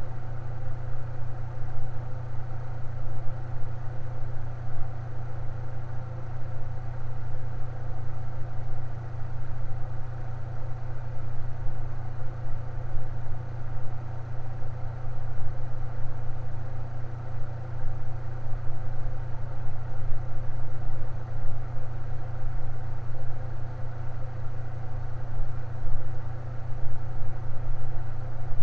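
Electric fan running steadily: a strong low motor hum with several fainter steady tones above it, unchanging throughout.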